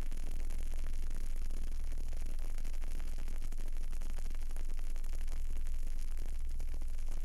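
A burning candle with faint, irregular crackling ticks over a steady hiss. A steady low hum runs underneath and is the loudest part.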